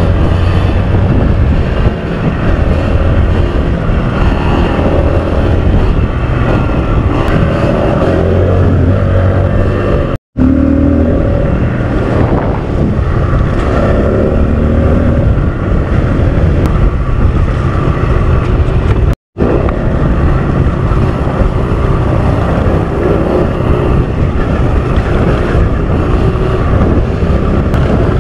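Kawasaki KLX150L's single-cylinder four-stroke engine running while the bike is ridden, its pitch rising and falling with the throttle. The sound cuts out twice for an instant.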